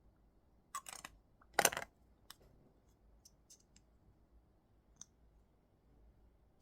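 Quiet handling noises: a couple of short scraping rustles about a second in, a louder one just after, then a few faint scattered clicks.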